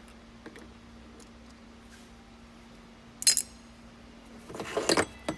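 Hard objects clinking over a faint steady hum: a sharp clink about three seconds in, then a longer clattering rattle near the end.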